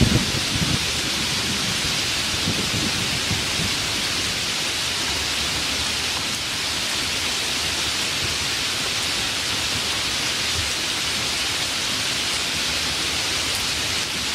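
Steady rain falling, an even hiss, with the last of a low thunder rumble dying away in the first second.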